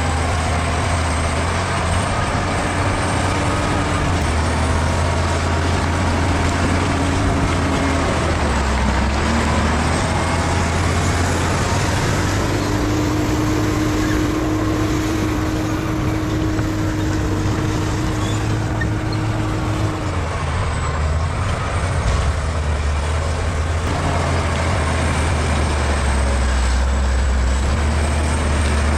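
Bulldozer's diesel engine running steadily under load, with a steady higher tone rising above it for several seconds in the middle.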